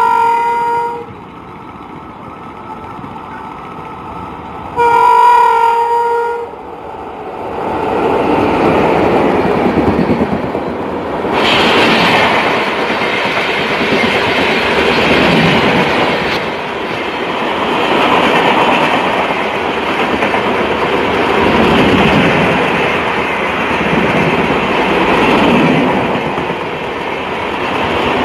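Locomotive horn sounding two blasts about five seconds apart as an express train approaches, then the train's coaches rolling past with a steady rumble and wheel clatter that swells and fades every few seconds.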